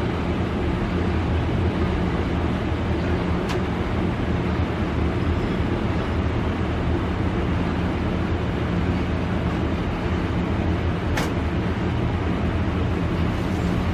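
Steady rush of water flowing through the supply piping into a Rheem gas water heater tank as it refills after a gas valve replacement, with two brief clicks, one a few seconds in and a sharper one near the end.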